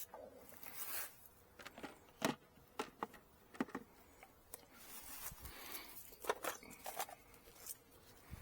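Irregular scrapes, clicks and rustles of wooden beehive frames being handled and scraped, with several sharp clicks throughout.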